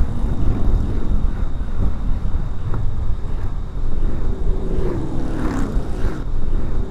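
Wind rushing over a moving motorcycle's microphone, with motorcycles in a large group passing one after another. Near the end their engine notes drop in pitch as they go by.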